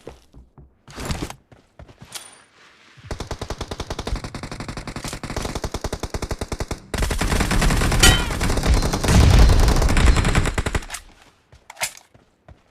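Automatic gunfire in a team shooter video game. After a couple of short bursts comes a steady rapid stream of shots for about four seconds, then louder, denser fire for about four more seconds that stops abruptly. One or two isolated shots follow near the end.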